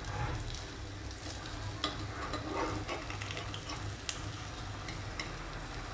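Bottle-gourd kofta batter frying in a little oil in an appe pan, with a soft steady sizzle, while a metal spoon turns the koftas, scraping and clicking lightly against the pan a few times.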